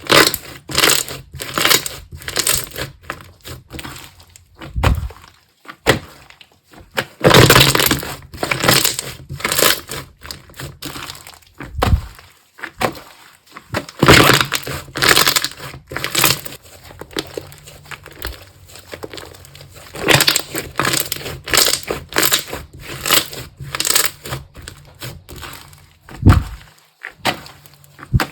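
Slime being squished and pressed by hand, making irregular crackling and popping noises in spells of a second or two with short pauses between.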